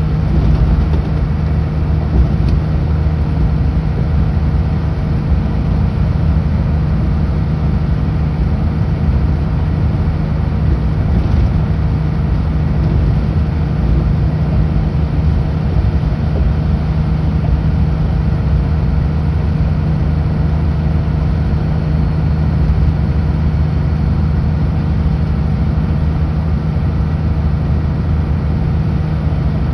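Kenworth W900L semi truck's diesel engine running steadily at highway cruise, a constant low drone with road noise underneath and no change in pitch.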